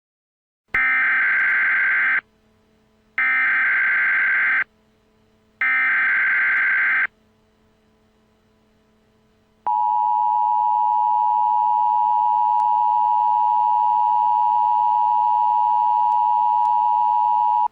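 Emergency Alert System broadcast opening: three short bursts of SAME header data tones, each about a second and a half with pauses between, then a steady two-tone attention signal that starts about ten seconds in and holds without a break.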